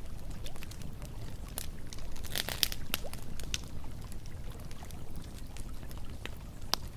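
Campfire crackling and popping, with a quick cluster of pops about two and a half seconds in, over a steady low rush of flowing river water.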